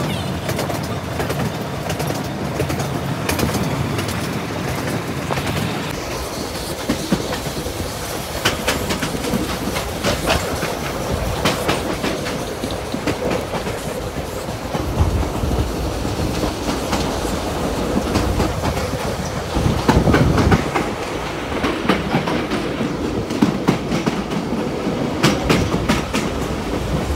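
Heritage railway train running, its wheels clacking over the rail joints in an uneven clickety-clack over a steady rumble.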